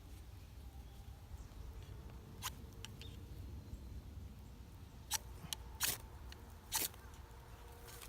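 A few sharp, short snaps and clicks, about five spread over several seconds, over a low steady rumble.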